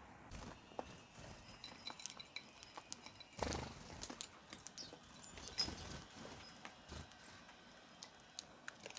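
Birds feeding: scattered pecking taps and clicks, a few short high chirps, and a brief rustle about three and a half seconds in.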